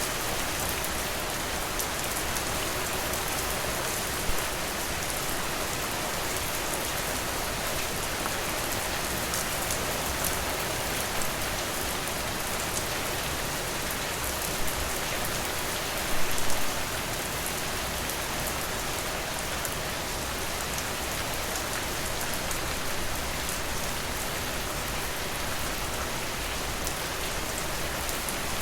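Steady rain falling, a dense even hiss scattered with the ticks of single drops. A few louder taps stand out, the biggest cluster of them a little past halfway.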